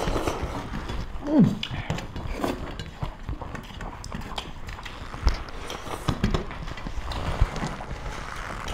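Close-up eating sounds of people eating by hand: wet chewing and lip-smacking clicks, with fingers mixing curried rice on steel plates. A short falling hum of a voice comes about a second and a half in.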